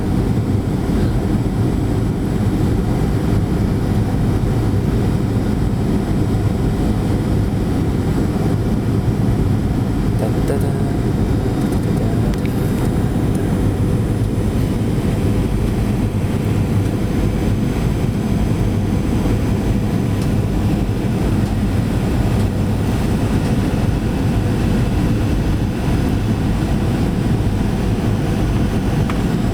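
Airliner cabin noise in flight: a steady low roar of the jet engines and rushing air heard inside the passenger cabin.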